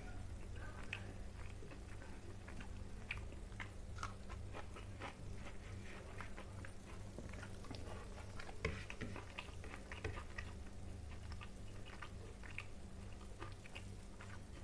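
Eating by hand, close to the microphone: chewing, and fingers picking rice and omelette off a plate as many small, irregular clicks. A steady low hum runs underneath.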